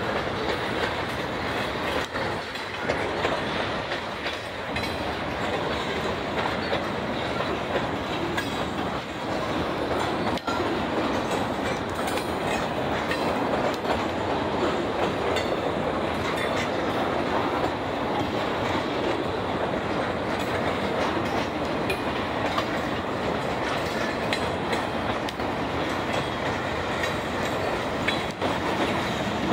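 Freight train cars (boxcars and a gondola) rolling steadily past, wheels clacking over the rail joints.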